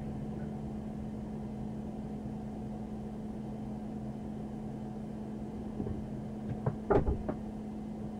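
Steady low hum of an idling patrol car, with a few short knocks and clicks about six to seven seconds in.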